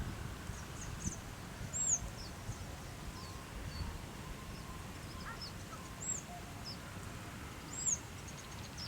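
Small birds calling with thin, high-pitched chirps that arch up and down, four of them standing out, over a steady low background rumble.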